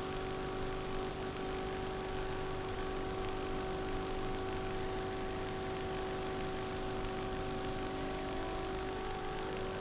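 A steady electrical hum, several unchanging tones, over an even hiss.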